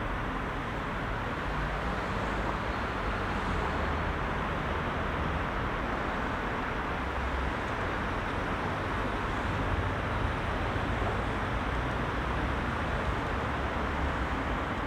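Heavy rush-hour road traffic: a steady, unbroken wash of many car engines and tyres on the road, with a low rumble underneath.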